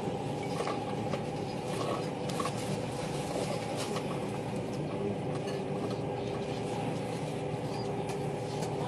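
Steady running noise of a Tilt Train heard from inside the carriage while it travels: an even rumble and hiss with faint steady tones and occasional light clicks.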